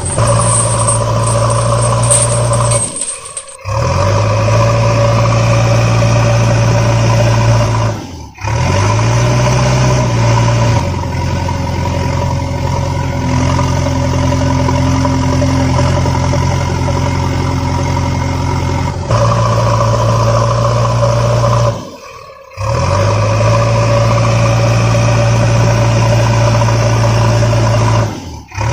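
Heavy-vehicle engine sound effect running steadily, dropping out briefly four times and each time rising back up as it picks up again.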